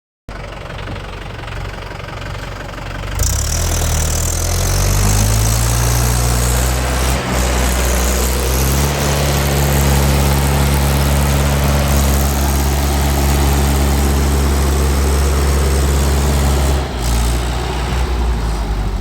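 Tractor diesel engine running, revved up about three seconds in and climbing in steps to a high, steady speed under load, then dropping back to a lower speed near the end.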